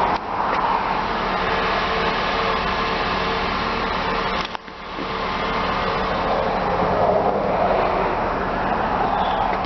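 2008 Honda Accord engine idling, a steady hum under an even rushing hiss, with a brief dip a little after four seconds.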